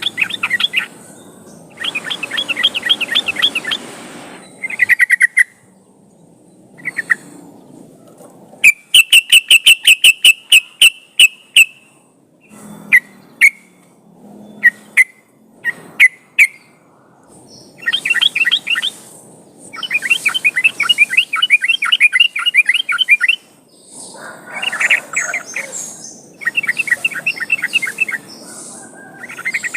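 Yellow-vented bulbul (trucukan) singing in full voice: bouts of rapid, bubbly chattering phrases separated by short pauses, with a fast run of loud notes and then scattered single sharp notes in the middle. This is a song used as a lure to set kept bulbuls singing.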